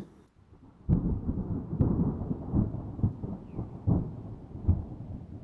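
Low rumbling thunder that starts suddenly about a second in, with sharp crackles running through it.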